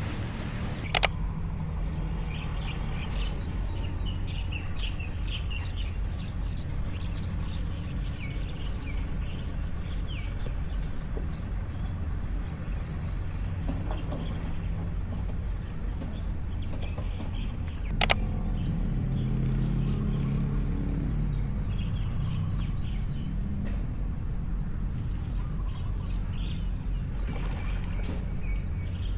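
Small birds chirping over a steady low rumble, with two sharp knocks, one about a second in and one a little past halfway.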